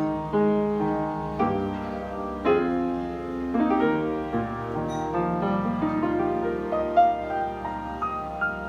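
Piano playing slow chords, gradually getting quieter.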